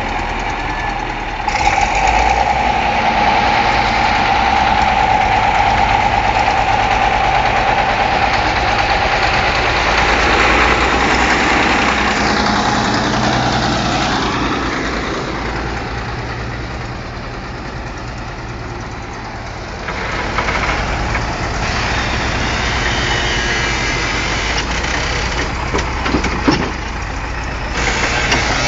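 Engine of road construction machinery running steadily, with a high steady whine over it for the first half that fades out, and a single sharp knock near the end.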